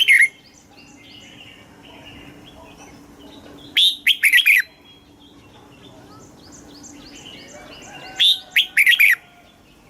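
Red-whiskered bulbul singing: loud, quick phrases of several whistled notes, one about four seconds in and another near the end, with fainter bird chirps running between them.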